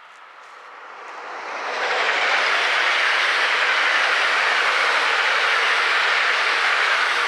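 A train passing close by: a rushing rail noise swells over about a second, then holds steady and loud until it drops away near the end.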